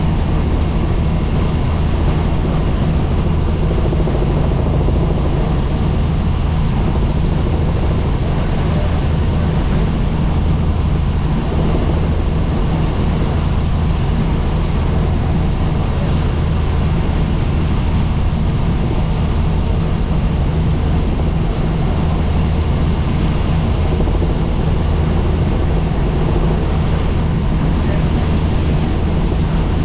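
Helicopter in flight, its rotor and turbine running as a loud, steady drone heard from inside the cabin.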